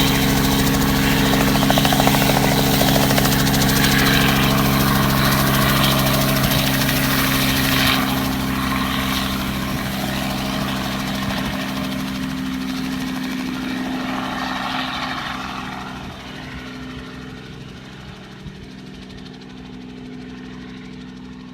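Robinson helicopter's engine and rotor running, a steady hum. It grows fainter from about 8 seconds in and drops away further near the end as the helicopter leaves after take-off.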